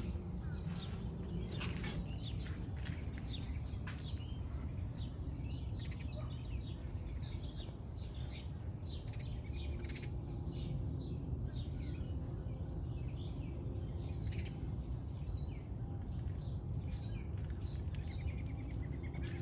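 Small birds chirping with many quick, short calls, over a low steady outdoor rumble.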